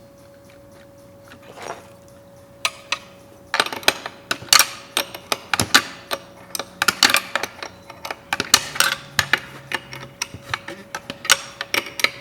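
Quick, uneven metallic clicks and clinks of a router's collet and wrench as the router bit is changed and tightened, over a faint steady hum.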